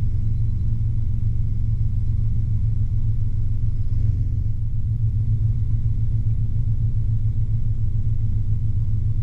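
Robinson R22 helicopter in flight: a steady low drone from its piston engine and two-blade main rotor.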